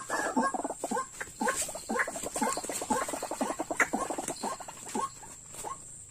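White-breasted waterhen (dahuk) calling: a series of short, clipped croaking notes that speed up into a rapid run about two seconds in, then slow again to separate notes.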